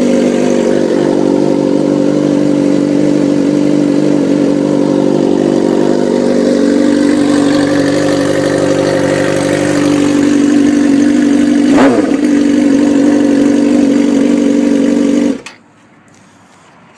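Motorcycle engine running at a steady speed, with a brief change about twelve seconds in. It stops abruptly about a second and a half before the end.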